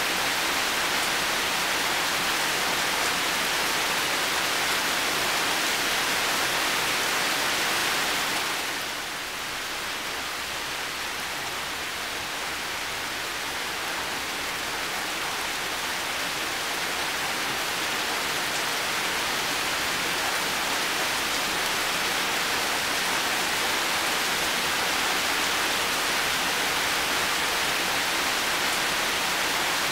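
Heavy rain falling steadily, a dense even hiss. About a third of the way in it briefly drops in level and then slowly builds back up.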